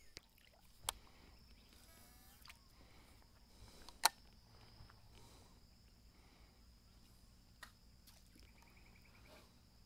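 Faint natural creek-side ambience: a steady high insect drone with a few faint chirps. Three sharp clicks stand out, the loudest about four seconds in.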